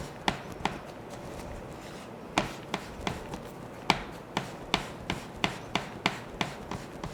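Hands pressing and patting arepa dough against a hard work surface, making irregular sharp taps. The taps pause for more than a second near the start, then come about two to three a second.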